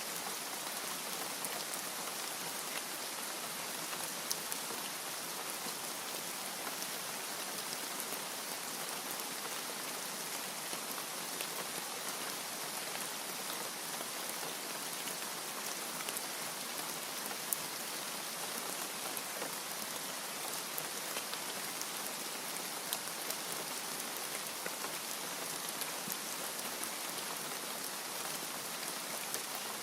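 Steady rain with a constant hiss and scattered individual drops ticking sharply on a surface.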